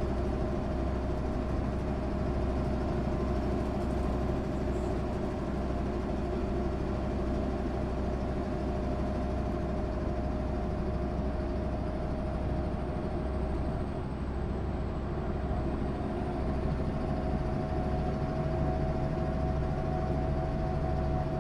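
MAN SÜ 272 bus running at a steady pace, its engine and drivetrain giving a continuous low rumble with a steady whine. Near the end the whine steps a little higher.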